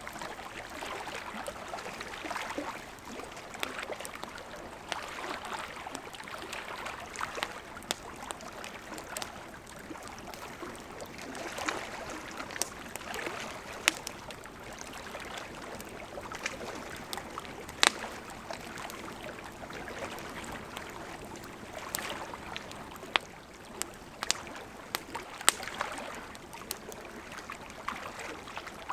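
River water flowing steadily, with a campfire crackling over it in sharp pops, several loud single snaps among smaller ticks.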